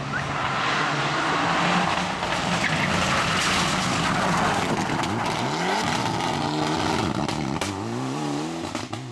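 Rally car going by at speed, its engine loud with a rushing noise for the first few seconds, then rising and falling in pitch several times as it revs through gear changes.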